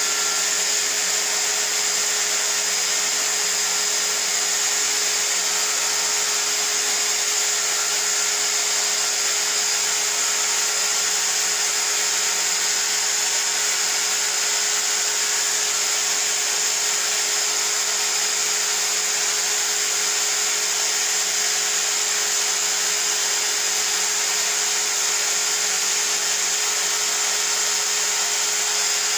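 A small electric motor tool running steadily with a constant whine and hiss, unchanged throughout, typical of cleaning equipment used on a split-type air conditioner.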